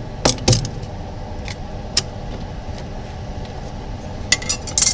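A few sharp clicks and taps, two about half a second in, one near two seconds and a louder cluster near the end, over a steady low rumbling background.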